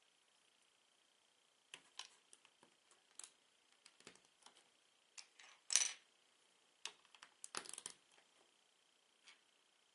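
Small plastic Lego bricks being handled, with scattered light clicks and clatters as pieces are picked up and pressed together. There is a louder clack about six seconds in and a quick cluster of clicks about a second and a half later.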